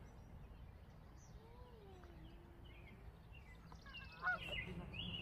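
Faint open-air background with birds calling; a quick run of louder chirping calls comes about four seconds in.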